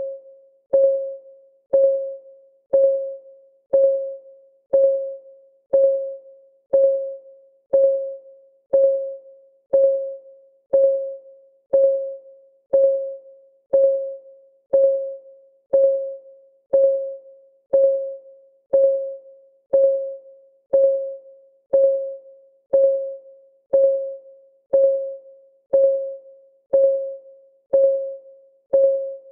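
Clock-ticking sound effect of a countdown timer: one tick a second, each a short pitched tock that rings briefly and fades, perfectly even.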